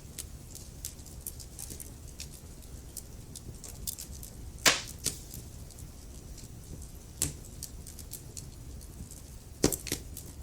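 Wood fire crackling: many small ticks over a steady low rumble, with a few sharper, louder pops. The loudest pop comes about halfway through, and two more land close together near the end.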